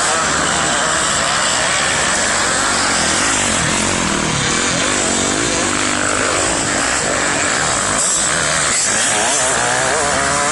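Motocross bike engines running on the track, revving up and down repeatedly over a loud, steady rushing noise.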